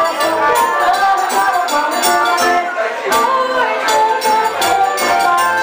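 Live forró band playing: accordion melody over guitar, zabumba drum and jingling hand percussion, in a steady driving rhythm.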